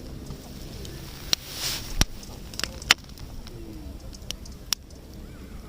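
Campfire crackling, with irregular sharp pops over a steady low rustle. A low bird call sounds once, about three and a half seconds in.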